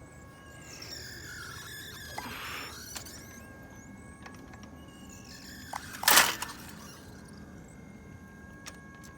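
Champion WheelieBird 2.0 wobble clay thrower squeaking and squealing as it runs, with rising and falling squeals, and one loud sharp clack about six seconds in. The noise is the trouble the owner is showing, with the machine jerking and its upper rack loose.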